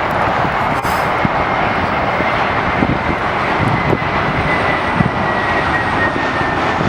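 Jet airliner passing overhead: steady loud engine noise with a high thin whine that slowly falls in pitch as it goes by.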